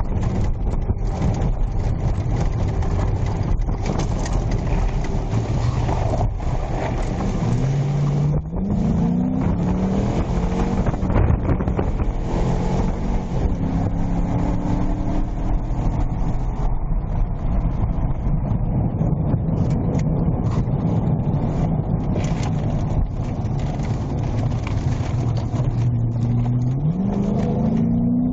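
Police patrol car driving, engine running over steady tyre and road noise; the engine note rises as the car speeds up about eight seconds in and again near the end.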